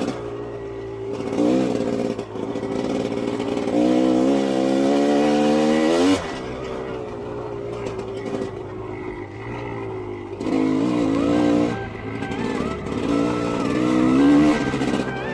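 Dirt bike engine revving as it is ridden: the pitch climbs steadily for about two seconds and drops sharply when the throttle shuts, then comes several shorter climbs and drops near the end.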